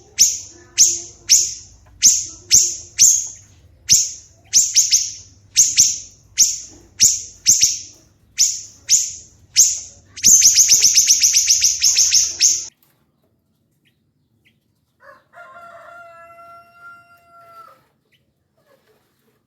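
Songbird calling in a quick series of sharp, high, falling notes, about two a second, breaking into a rapid trill about ten seconds in and then stopping suddenly. A fainter, lower, steady-pitched drawn-out note follows a few seconds later.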